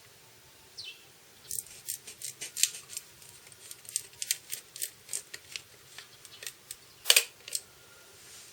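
A run of short, sharp clicks and scrapes, irregular at about three or four a second, such as hand work with small tools or parts makes. It starts about a second and a half in, and the loudest scrape comes about seven seconds in.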